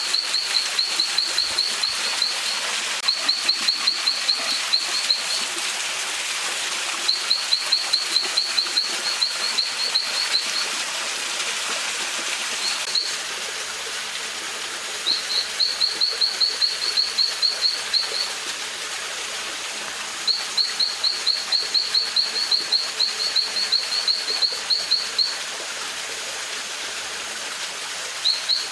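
A bird singing in repeated bursts of quick, evenly spaced high chirps, each burst lasting two to three seconds with short pauses between. A steady hiss of running stream water lies underneath and drops somewhat about halfway through.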